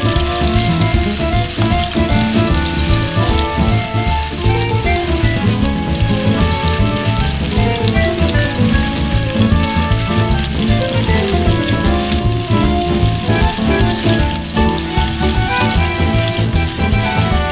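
Chicken pieces frying in oil in a pan, a steady crackling sizzle, with background music playing over it.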